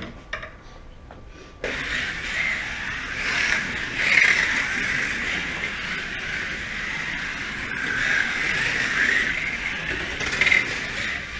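Small racing cars' motors and gear drives whining as they lap the track, starting abruptly about a second and a half in and swelling and fading as the cars pass.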